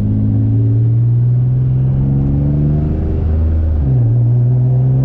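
Single-turbo Infiniti G35's VQ35 V6 engine accelerating under throttle, its pitch climbing steadily, dropping at a gear change about three and a half seconds in, then climbing again.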